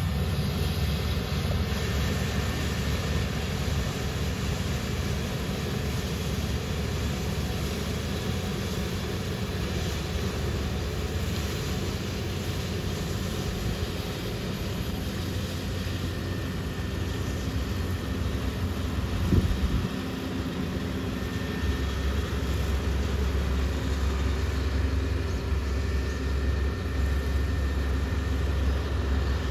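Heavy farm machinery running steadily, a continuous low mechanical drone. The low hum grows heavier about two-thirds of the way through.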